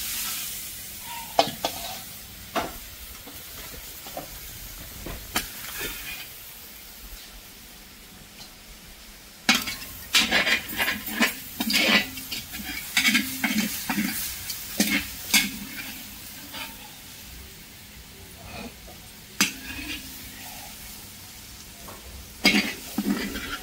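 Food frying in a pot with a steady sizzle, stirred with a spoon that scrapes and knocks against the pot. The stirring comes in runs of quick strokes, busiest about ten seconds in and again near the end.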